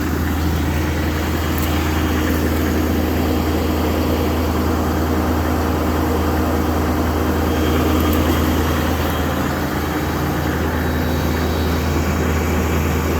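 2005 LLY Duramax 6.6-litre V8 turbodiesel idling steadily while warming up after a cold start in freezing weather.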